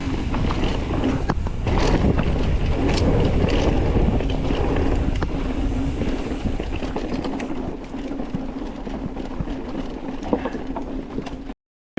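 Wind noise on the microphone of a mountain bike ride-along camera, mixed with the rattle and clicks of the bike working over a rough, technical trail climb. The sound cuts off abruptly near the end.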